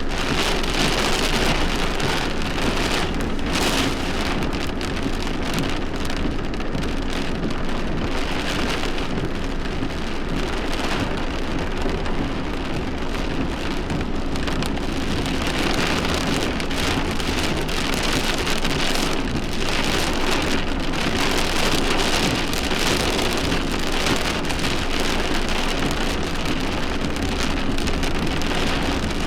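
Steady rain from a severe thunderstorm, swelling and easing in intensity.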